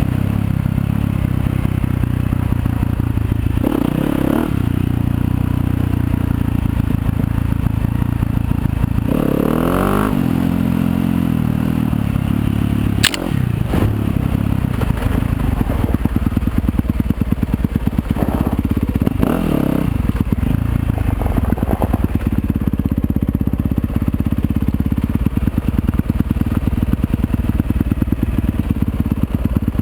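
Yamaha YZ250FX single-cylinder four-stroke dirt bike engine running while being ridden, revving up several times, around 4, 10 and 19 seconds in. A single sharp knock about 13 seconds in.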